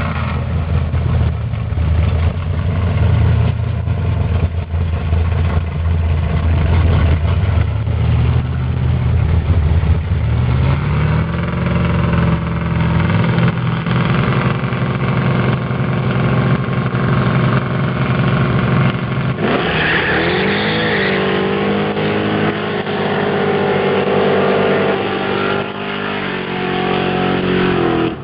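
Two muscle-car engines rumbling and revving while staged side by side, then launching at full throttle about two-thirds of the way in, their pitch climbing and dropping back at a few gear changes as they pull away.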